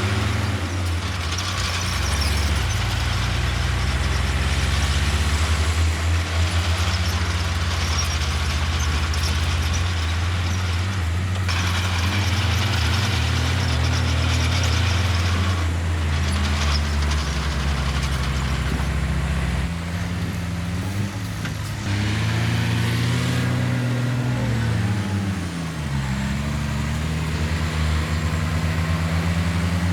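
Heavy diesel engine of earthmoving machinery working under load. Its pitch drops and climbs back several times in the second half as the throttle and load change.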